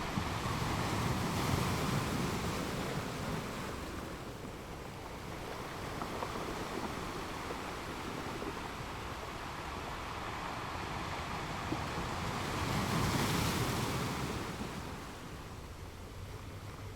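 Ocean surf: a steady wash of waves, swelling twice, once in the first few seconds and again about three-quarters of the way through, as waves break and wash in.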